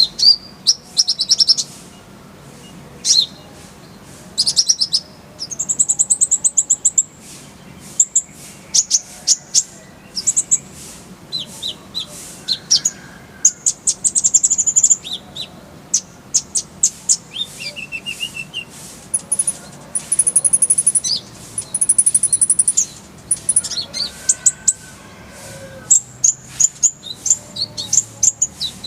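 A kolibri ninja sunbird singing a high-pitched song of short sharp chirps broken by fast rolling trills, with brief pauses between phrases.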